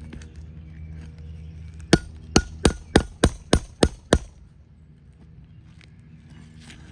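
A shingle hammer striking a steel nail puller eight times in quick succession, about three blows a second, with a short metallic ring after each, driving the puller under a roofing nail head to pull it out of an asphalt shingle.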